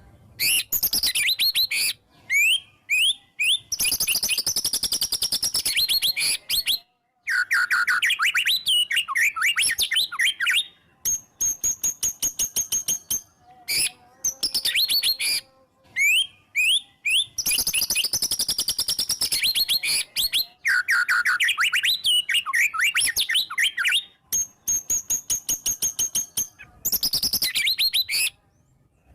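White-rumped shama (murai batu) singing hard: bursts of rapid, high whistles, trills and sharp repeated notes packed with mimicked phrases, broken by sudden short pauses between phrases.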